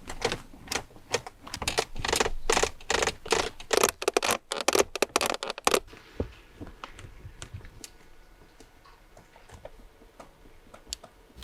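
Mercedes-Benz centre console plastic trim creaking and clicking, a quick run of creaks for about six seconds, then fainter scattered ticks: the console squeak this anti-squeak fix is meant to cure.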